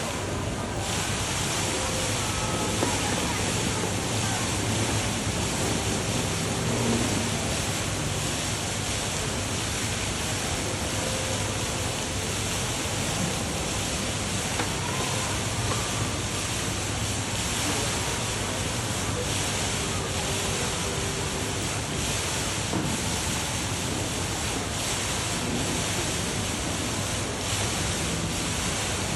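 Indoor decorative waterfall running, a steady, even rush of falling and splashing water.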